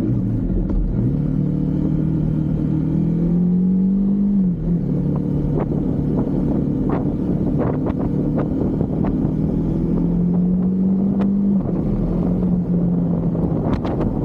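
Husqvarna Svartpilen 401 single-cylinder engine pulling along the road: the engine note climbs steadily, drops sharply about four and a half seconds in, then climbs slowly again and drops once more near the end. Wind rumble runs under it, with scattered sharp ticks through the second half.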